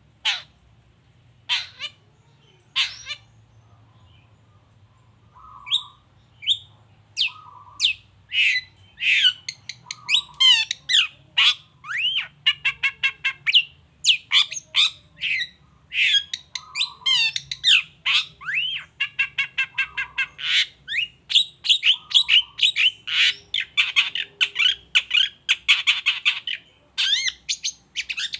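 Long-tailed shrike (cendet) calling and singing: three separate sharp calls about a second apart, then, after a short pause, a fast, dense run of harsh squawks, sweeping whistled notes and rapid trills.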